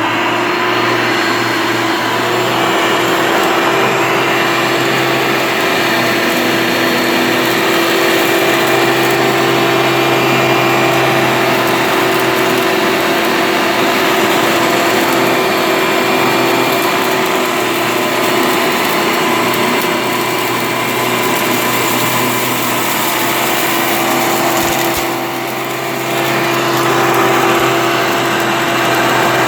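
Hoover Elite upright vacuum cleaner running steadily: a motor whine over a low hum. The level dips briefly about 25 seconds in and then comes back.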